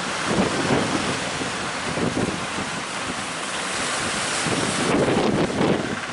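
Strong wind buffeting the microphone over the rush of rough sea, a steady noise with uneven gusts, loudest about five seconds in.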